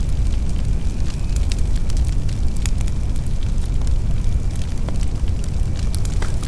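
Fire burning with a steady low rumble and frequent sharp crackles and pops.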